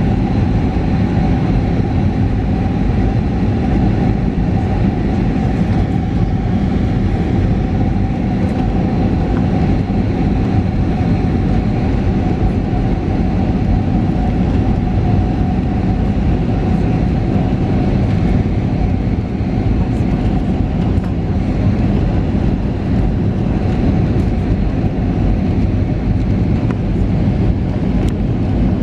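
Cabin noise inside an Airbus A320neo with CFM LEAP-1A engines: a steady rumble of engines and airflow with a constant whine above it.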